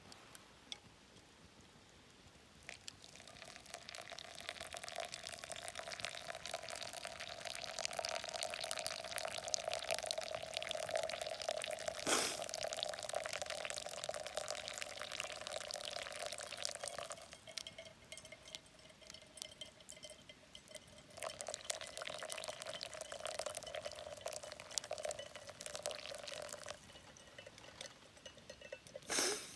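Hot water poured in a thin, steady stream, in two long pours with a short break between them, as for hand-drip coffee. A sharp click comes midway and a clack near the end.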